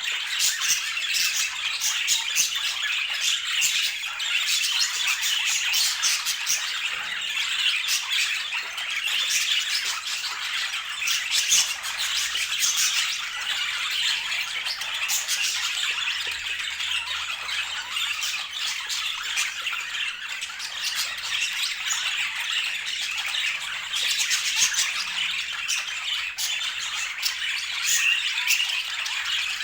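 Budgerigars chattering and warbling without pause, a dense stream of chirps with many short, sharp squawks mixed in.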